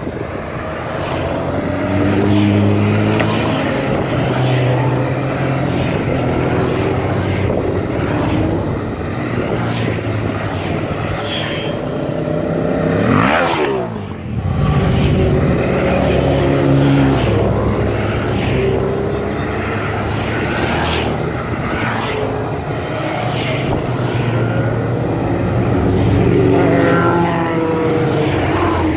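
Motorcycle engine running under way, its revs rising and falling through the gears. About halfway through the revs drop steeply, then build up again.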